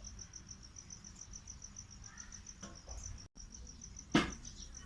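Insect chirping in a steady high-pitched pulse, about five chirps a second, with a single sharp knock about four seconds in.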